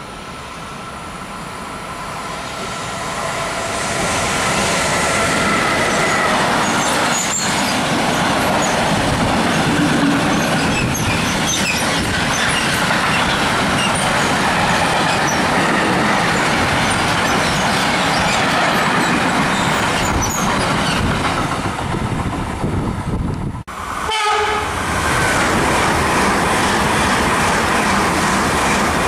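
Long freight train of covered box wagons passing at speed on the through track: loud wheel-on-rail rumble with scattered clicking over the rail joints, building over the first few seconds as it approaches, with a few steady high tones during the approach. After a brief break about 24 s in, a second train, a white-and-red SBB passenger train with a restaurant car, rushes past at speed.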